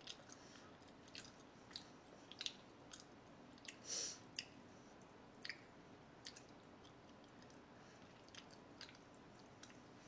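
Quiet chewing of food: soft, scattered wet mouth clicks and smacks, with a slightly louder one about four seconds in.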